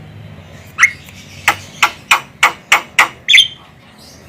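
Javan myna giving a rapid series of short, harsh calls, about eight in all, starting about a second in and spaced roughly three a second.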